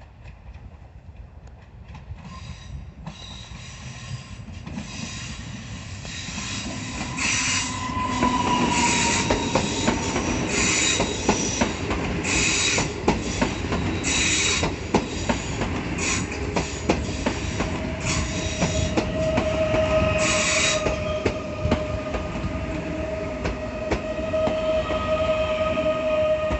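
PESA Dart ED161 electric multiple unit passing close, growing louder over the first several seconds. Its wheels click over the rail joints and squeal, with repeated bursts of high hissing. A steady electric whine comes in during the last several seconds.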